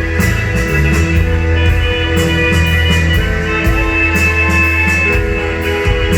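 A live rock band playing loud and steady: electric guitar over heavy bass, with drum and cymbal hits keeping a regular beat.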